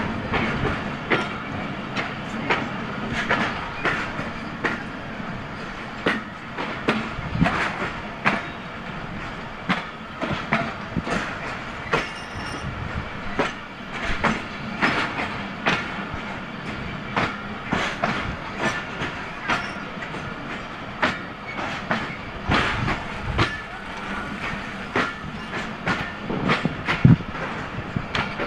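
Passenger coaches of the Allama Iqbal Express rolling past at close range: a steady running noise with sharp wheel clacks over the rail joints, coming in small clusters as each bogie crosses.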